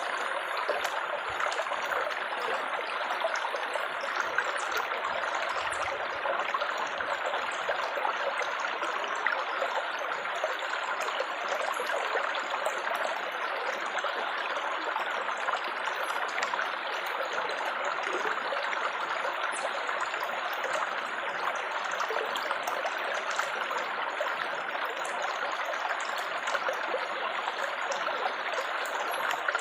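Water trickling and babbling steadily, like a small stream running over stones, with faint fine splashes.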